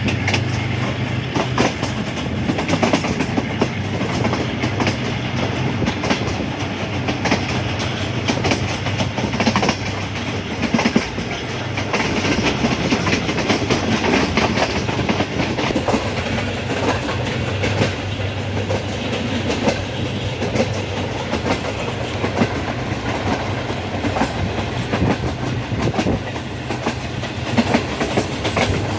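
Subak Khiram passenger express running on the line, its wheels clacking over the rail joints over a steady low drone.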